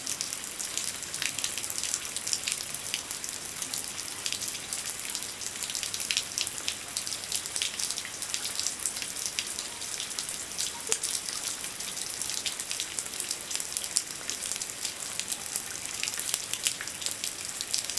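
Steady rain: a dense patter of drops over a soft hiss, with water dripping and splashing off a roof edge.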